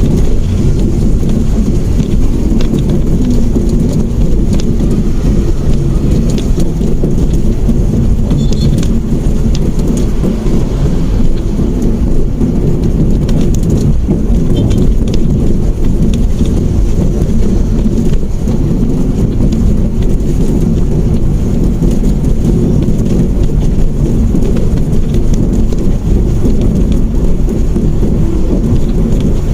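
Steady, loud low rumble of a Mitsubishi Mirage hatchback on the move: road, engine and wind noise on the microphone.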